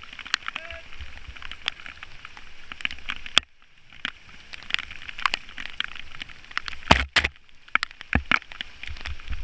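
Rain spattering and crackling on the microphone during a bike ride in the rain: a steady hiss with many irregular sharp ticks of drops, cutting out briefly twice.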